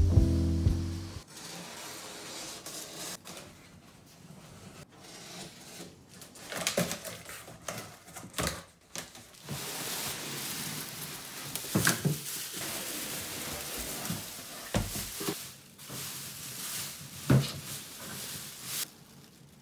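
Unboxing by hand: cardboard box flaps handled and plastic packaging crinkling as plastic-wrapped bins are lifted out, with scattered knocks and thumps. The crinkling runs steadily through the second half.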